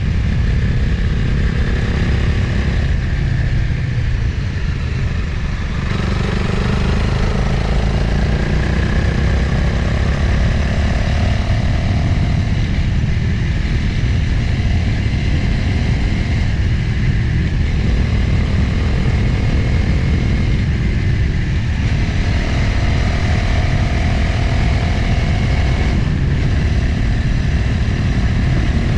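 A motorcycle engine running under way with heavy wind rush on the microphone. The engine note rises and falls with the throttle, changing a few times along the way.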